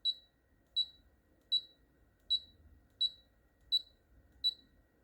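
Ultrasonic aroma diffuser beeping as its light button is pressed again and again to change the LED colour: seven short, high beeps, about one every three-quarters of a second.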